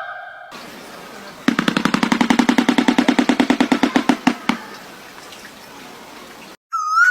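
A bird's rapid rattle: about a dozen even pulses a second for about three seconds, slowing slightly at the end, over a steady background hiss.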